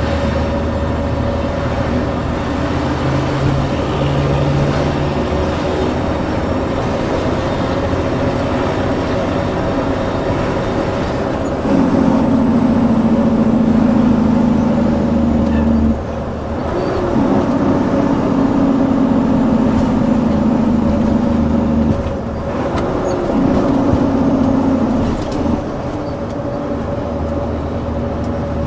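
Heavy truck's diesel engine running, heard from the cab. About twelve seconds in it gets louder, and then it runs in three stretches, each sagging slowly in pitch, with short breaks between them.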